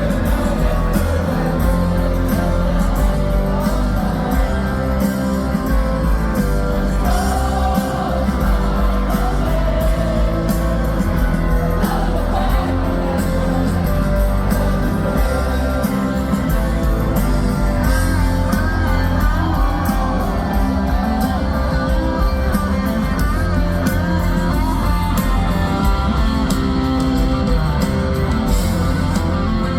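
A live rock band playing loudly, with sung vocals over guitars.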